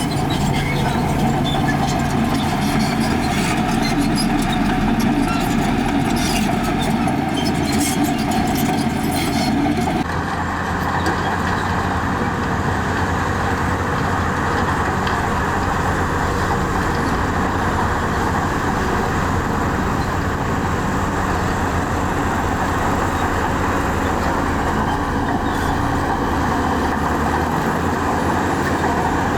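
Heavy diesel earthmoving machinery, bulldozer and dump truck, running steadily, with clattering and knocking over the first several seconds. The sound changes abruptly about ten seconds in, then runs on steadily.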